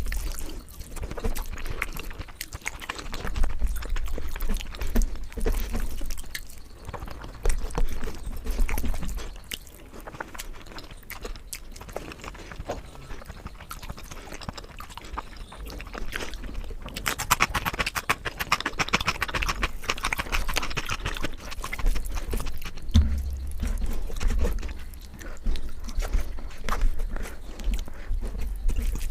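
Close-miked eating sounds: wet chewing and lip smacking with many small irregular mouth clicks, and a denser crackly stretch of chewing around two-thirds of the way through.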